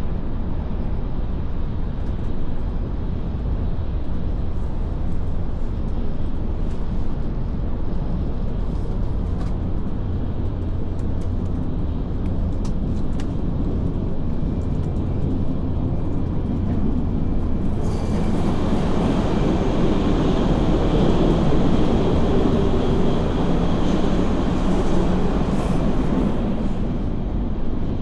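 Steady low rumble and hiss of a Shinkansen bullet train running at speed, heard from inside the cars. About 18 seconds in it turns suddenly louder and brighter for around nine seconds, then settles back.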